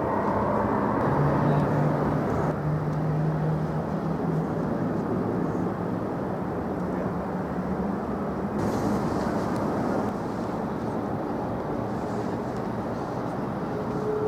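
Jet airliner engines, a steady rumble with a low hum running through it for the first several seconds.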